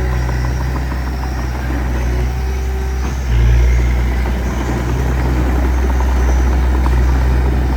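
Diesel engine of heavy earthmoving equipment running steadily, with a brief rise in load about three and a half seconds in.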